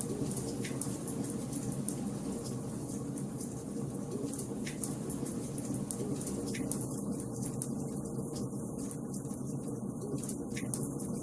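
Wood fire crackling in a fireplace: a steady low rush of burning with scattered sharp pops and snaps, which come more often in the second half.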